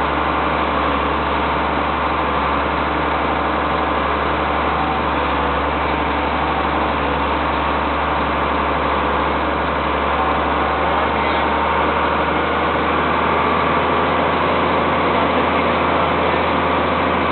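Case IH MX110 tractor's diesel engine running steadily.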